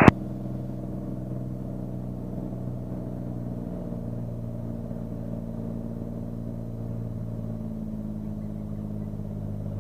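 Beechcraft Bonanza's single piston engine running steadily at low power, a smooth even drone with a slight change in pitch partway through.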